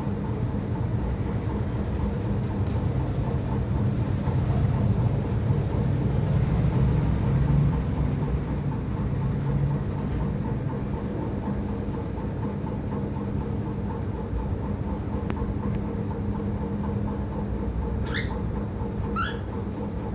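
A steady low rumble with a constant hum, swelling slightly a few seconds in. Two short rising chirps come near the end.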